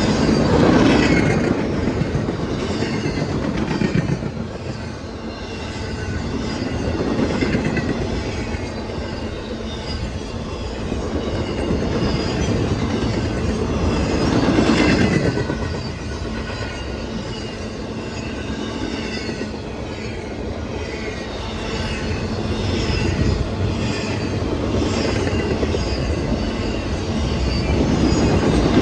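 A train rolling steadily past, its wheels clattering over the rails with faint squeals from the wheels and the loudness swelling and easing every few seconds.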